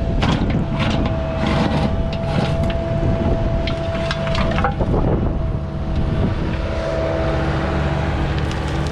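Cat mini excavator's diesel engine running under load with a steady hydraulic whine, while its bucket scrapes and crunches through the ground in a run of short strokes over the first half, then settles to engine and whine alone.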